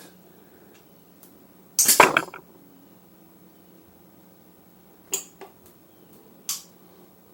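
Metal parts clinking during motorcycle front-end work: one loud rattling clink with a short ring about two seconds in, then three light clicks near the end.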